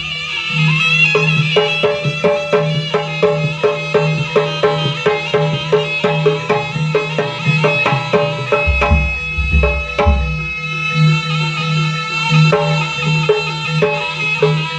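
Jaranan music from an East Javanese gamelan ensemble: a fast, even pulse of drum and gong-chime strokes over a steady low drone, with a reedy melody above, and deep bass thumps about nine seconds in.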